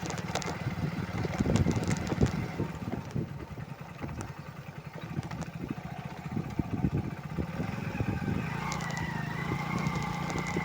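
Motorcycle engine running, with irregular knocks and rattles. From about eight seconds in, a higher wavering whine joins the engine note.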